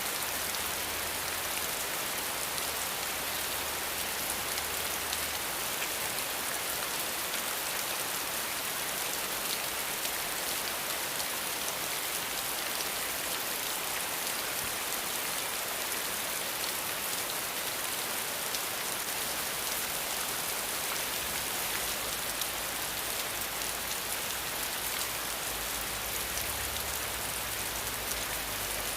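Steady rain falling, a dense even hiss of drops that holds unchanged throughout.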